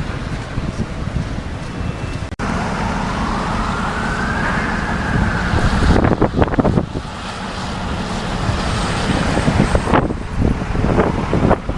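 Heavy wind buffeting the microphone, with an emergency-vehicle siren wailing slowly up and then down about a third of the way in. Loud gusts of wind come about halfway through and again near the end.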